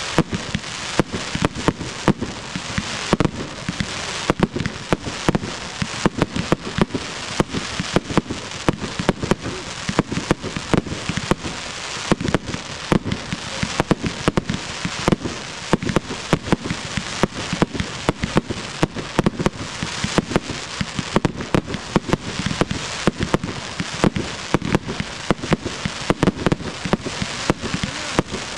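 Fireworks going off in a rapid, steady string of sharp bangs, several a second, over a constant crackling hiss.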